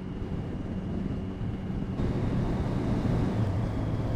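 Motorcycle engine running steadily on the move, with wind noise on the microphone; the engine note rises slightly about two seconds in.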